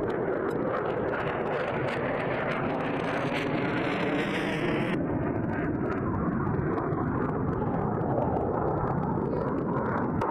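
Jet noise from an F-22 Raptor's twin turbofan engines as the fighter flies its display, with a faint tone sliding down in pitch over the first few seconds. The sound changes abruptly about halfway through.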